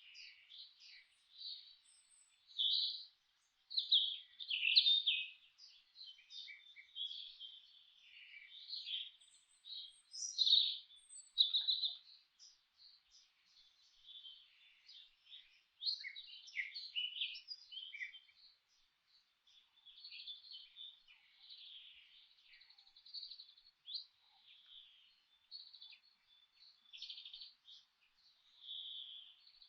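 Songbirds chirping and calling in a busy, overlapping chorus of short high notes with brief gaps between them, loudest around four to five seconds in and again around ten to eleven seconds.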